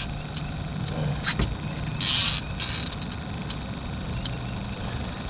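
Fishing reel being cranked against a hooked striped bass, with mechanical clicking and creaking from the reel. Two short hissing bursts come about two seconds in.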